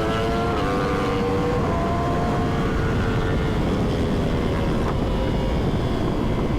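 Sport bike engine running at highway speed with heavy wind rush on the microphone; its pitch climbs slightly in the first second, then holds and eases off gently.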